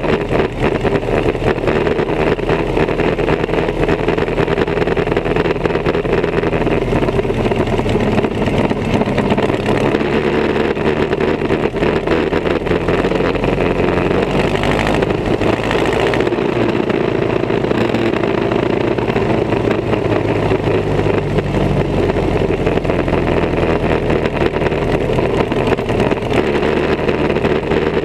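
Vintage race car engine running close by with a rapid, rough firing beat, its pitch shifting up and down a few times.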